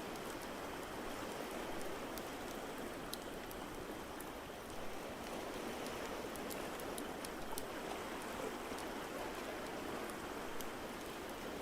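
Wood fire crackling, with scattered sharp pops, over a steady rushing wash of water.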